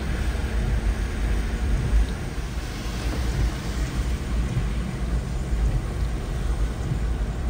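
Car driving on a wet road in heavy rain, heard from inside the cabin: a steady low rumble of engine and tyres under an even hiss of rain and road spray.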